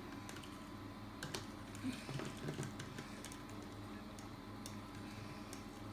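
Faint, irregular light clicks and taps from mixing in a small container, a few a little louder around two seconds in.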